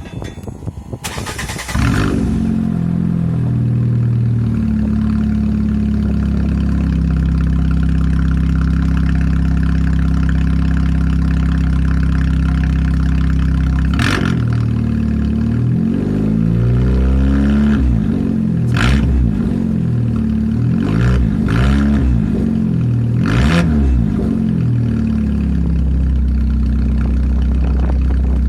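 Fiat 500 engine with the muffler removed, starting up about two seconds in and then idling loud and unmuffled. Later it is revved in several short blips that rise and fall, then settles back to idle.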